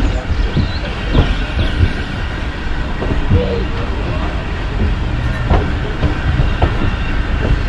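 Heritage railway train running along the track: a steady low rumble with irregular knocks and clanks from the wheels and running gear.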